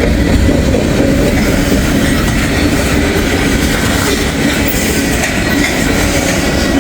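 Freight train rolling past at close range: a loud, steady rumble and clatter of steel wheels on the rails, with a faint squeal of wheels running through.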